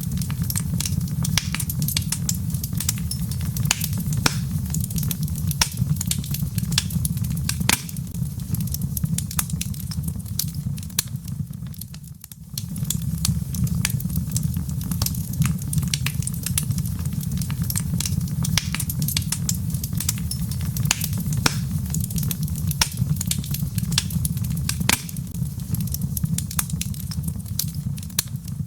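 Log fire crackling: frequent, irregular sharp pops and snaps over a steady low rumble, which briefly drops out about twelve seconds in.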